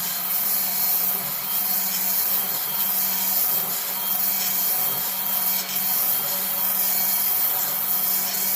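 Electric power sander running against a wooden axe handle, a steady loud sanding hiss over the sander's motor hum.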